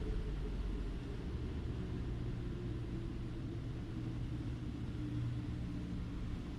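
Steady low rumble of an automatic car wash heard from inside the car, with a faint engine-like hum underneath.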